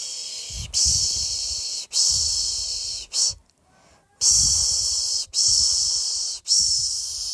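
A person's soothing 'pış pış' shushing to lull a baby to sleep: steady hissing shushes about a second each, three long ones then a short one, a brief pause, and the same pattern again.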